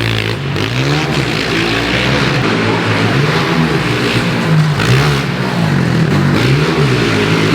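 Pit bike engines revving as they are ridden round a dirt track, the pitch climbing and dropping several times as the riders open the throttle and back off for corners.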